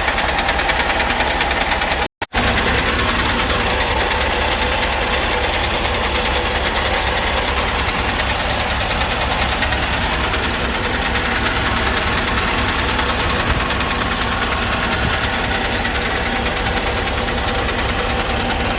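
Scania R580's V8 diesel engine idling steadily, with a brief break in the sound about two seconds in.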